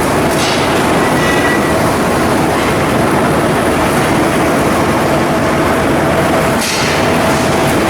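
Loud, steady machinery noise with a faint constant hum, a short higher tone about a second in and a brief hiss near the end.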